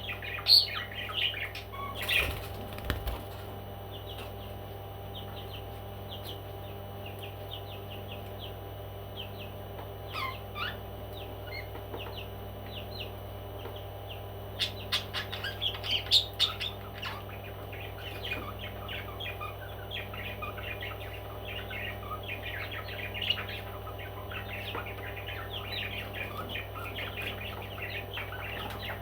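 Pet parrots chirping in short, high calls, scattered at first and then a dense stretch of chatter through the second half, over a steady low hum. A couple of sharp knocks come near the start.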